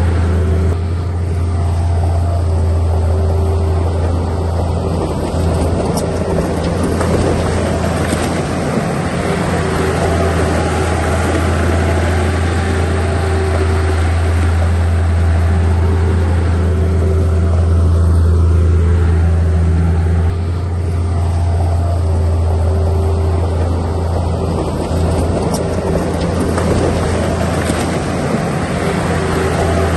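Heavy diesel engine of earthmoving equipment running steadily at a constant pitch, with a strong low drone.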